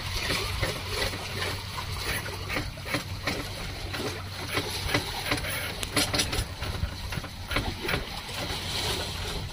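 Electric-powered sailing boat under way in calm water: water washing along the hull over a steady low hum, with scattered small clicks and splashes.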